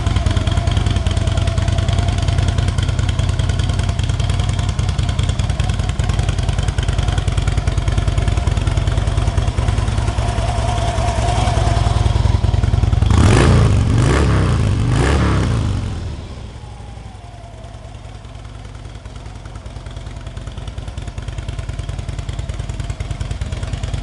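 2012 Harley-Davidson Electra Glide Ultra Limited's Twin Cam 103 V-twin idling with a steady lumpy beat, then revved three times in quick succession a little past halfway. It then settles back to a quieter idle.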